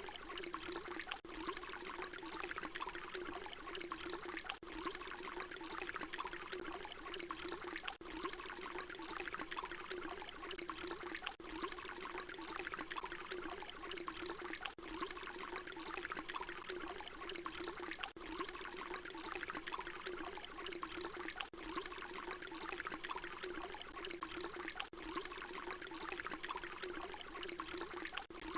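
Water pouring in a steady stream, a short recording looped so that a brief dip in the sound recurs about every three and a half seconds.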